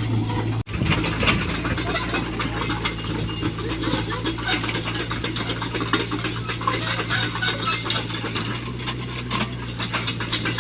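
Mini excavator engine running steadily, with scattered clinks and rattles over it.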